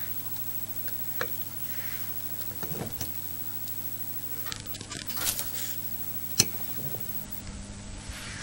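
A pet cockatiel moving about, with scattered small clicks, taps and brief rustles, the sharpest click about six seconds in, over a steady low hum.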